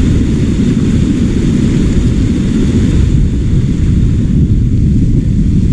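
Wind buffeting the microphone: a loud, ragged low rumble with no let-up.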